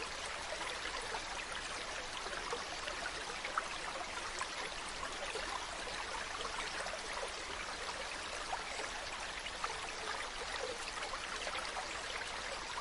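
Mountain stream running steadily over rocks, a continuous rush of water with many small splashes and trickles.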